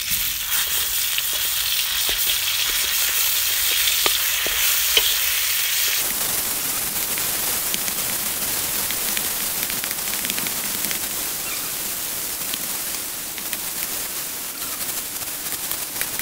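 Garlic, chilli and spice paste sizzling in hot oil in a metal wok, with a wooden spatula stirring and scraping across the pan in scattered clicks. The sizzle changes character about six seconds in.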